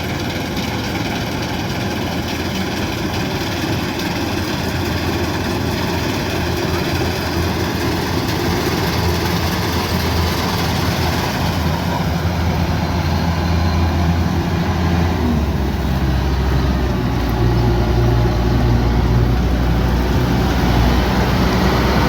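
Kubota DC108X combine harvester's diesel engine running steadily, growing louder toward the end.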